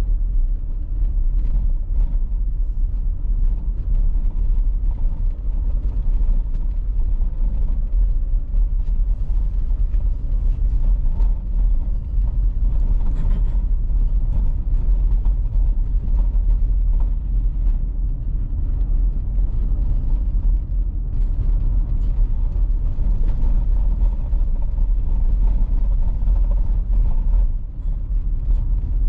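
Car driving on a winter road: steady low rumble of tyres and engine.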